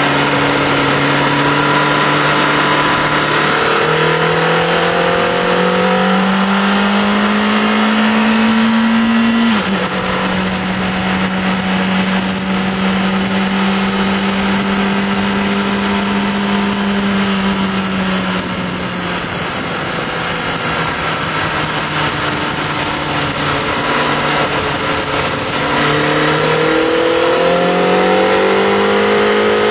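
Honda CBR Fireblade inline-four engine heard from a camera mounted on the bike, over constant wind rush. The revs climb for about ten seconds and step down slightly in a gear change. They hold steady for several seconds along the straight, drop away around eighteen seconds in, and climb again near the end.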